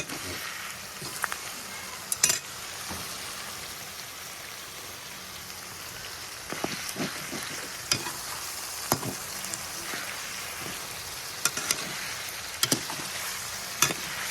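Chicken with freshly added onion-garlic paste sizzling in a pan, steady frying hiss. A spoon knocks and scrapes against the pan every second or so as the mixture is stirred.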